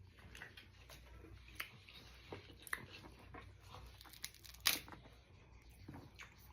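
Crab leg shells cracking and being picked apart by hand, close to the microphone. A scattered run of small crisp clicks and crackles, with one louder crack about four and a half seconds in.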